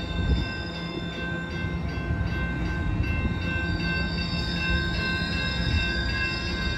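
Coaster commuter train approaching the station: a steady low rumble with several steady high-pitched tones held over it.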